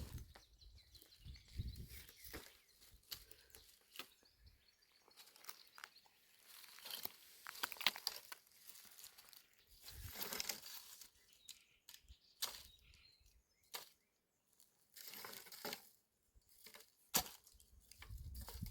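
Scattered rustling and crinkling with sharp clicks, coming and going in short bursts and dropping out completely twice for a moment.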